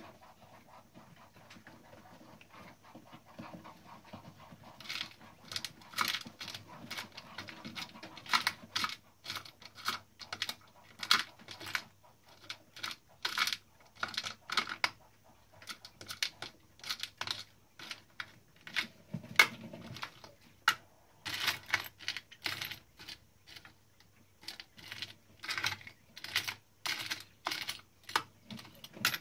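Klein Adler 2 portable typewriter mechanism clicking and tapping, a run of sharp irregular clicks several a second with short pauses, starting about five seconds in.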